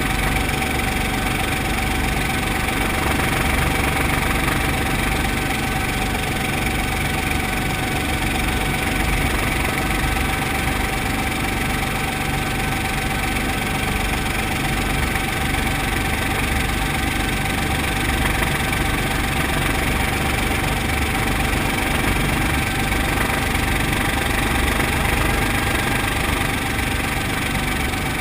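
Brantly B2B helicopter's piston engine and rotors running steadily, a constant drone with a steady whine above it.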